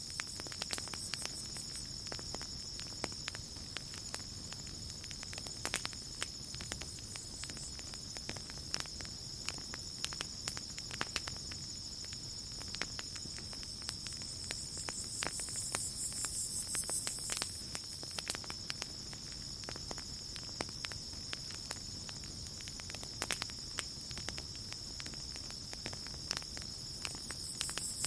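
Campfire crackling with scattered sharp pops, over a steady high chirring of crickets and other night insects that swells briefly about halfway through.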